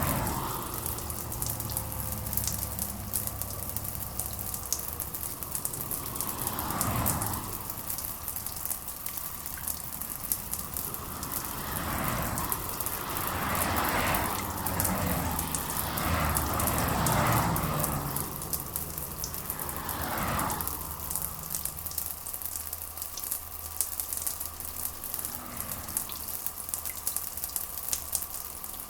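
Steady rain pattering as a dense, fine crackle, with soft swelling whooshes now and then, most of them in the middle of the stretch.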